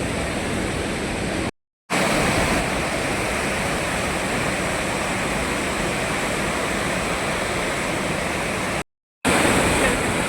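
Waterfall rushing steadily. The sound drops out briefly twice, about two seconds in and near the end, where the clips are cut together.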